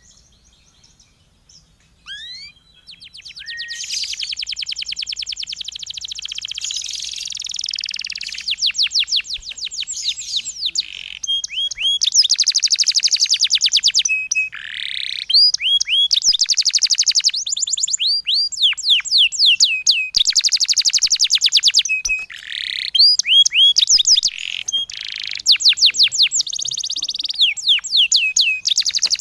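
Songbird singing a rapid-fire 'tembakan' song of the kind used as a master recording for Japanese white-eyes. It opens with a few single high chirps, then runs into long, fast trills of quick down-sweeping high notes in several bursts with brief pauses between them.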